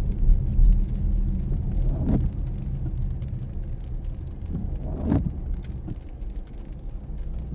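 Car driving in the rain, heard from inside: a steady low rumble of tyres and engine, with the windscreen wipers sweeping about every three seconds and faint ticks of rain on the glass.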